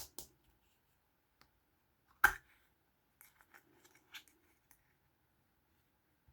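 Small hard clicks and taps from handling plastic Kinder Surprise toys: a loud, sharp click a little over two seconds in, then a run of lighter clicks and small rustles.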